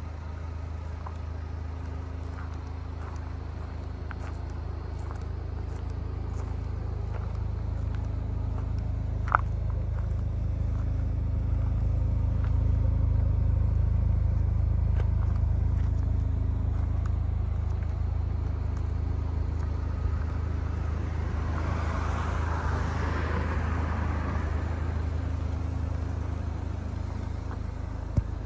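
2009 Chevy HHR SS turbocharged 2.0-litre four-cylinder idling steadily, growing somewhat louder through the middle. A single sharp click comes about nine seconds in, and a brief rushing noise a little over twenty seconds in.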